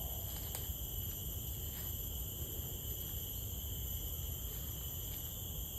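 Steady chorus of tropical insects, several continuous high shrill tones held without a break, over a low rumble.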